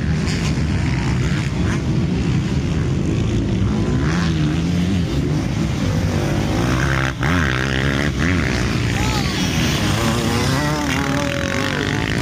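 Several motocross dirt bike engines running on the track, their pitch rising and falling as riders rev through the gears and throttle on and off.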